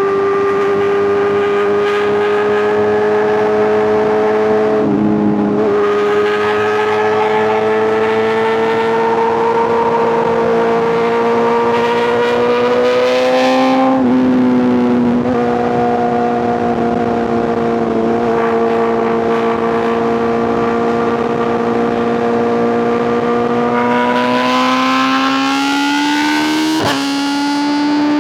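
Inline-four superbike engine and exhaust pulling hard at high revs at highway speed. The pitch climbs slowly, drops about halfway through as the bike shifts up, then rises sharply near the end before a quick break. Wind hiss runs underneath.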